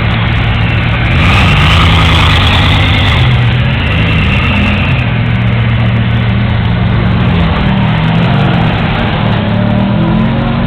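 Bugatti Veyron's W16 engine running near idle, its note rising and falling gently a couple of times without any sharp revs.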